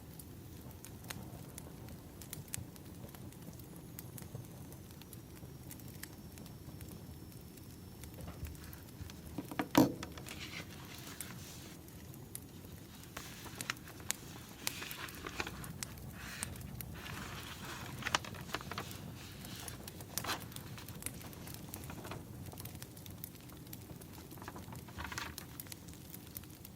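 Wood fire crackling: a steady low rumble of burning logs with scattered snaps and pops, one sharp, much louder pop about ten seconds in.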